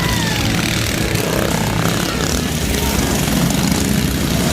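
Small motorcycle engines running with a steady drone.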